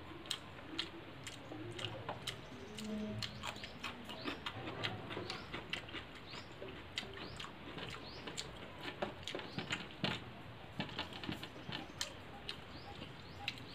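Close-miked eating sounds of rice and curry eaten by hand: mouth smacking and chewing, many irregular sharp, wet clicks several times a second.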